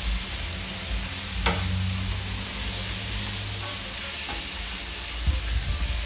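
Pulled chicken and chopped hatch green chiles sizzling on a hot Blackstone flat-top griddle as a metal spatula stirs and scrapes them across the steel. There is a sharp clack about a second and a half in and a few spatula knocks near the end.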